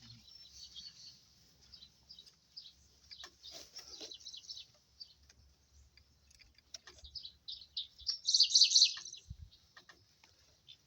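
Small birds chirping repeatedly, with a louder quick run of chirps about eight seconds in.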